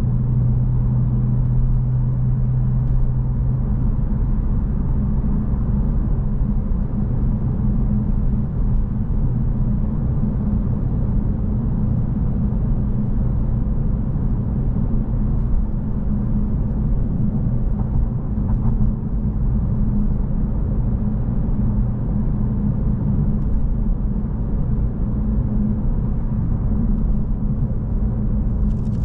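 2025 Honda Civic Si's turbocharged 1.5-litre four-cylinder engine running under way, with tyre and road noise, as a steady low drone. A deeper tone in the drone fades about four seconds in.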